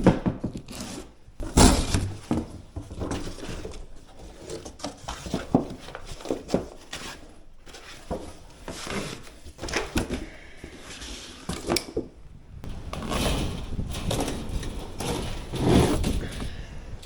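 Irregular knocks, clicks and clatter of tools and a door being handled at the start of a doggie-door job, with a denser, busier stretch about thirteen seconds in.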